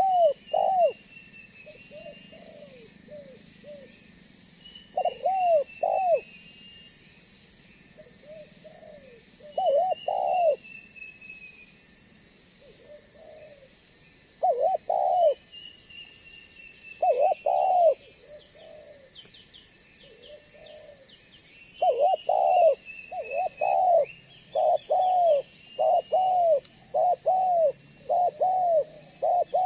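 Spotted dove (tekukur) cooing in the heavy 'banggo' style, in repeated phrases of two or three deep notes that become a quicker unbroken run of coos near the end. A higher, thinner downward call recurs between the phrases over a steady hiss.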